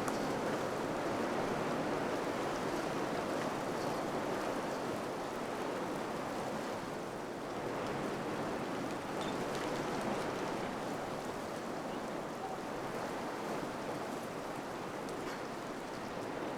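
Wind blowing steadily, a continuous rushing noise that eases slightly about halfway through and then builds again.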